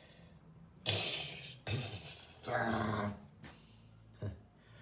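A person's voice making four short, strained noises, like grunts of effort in a scuffle.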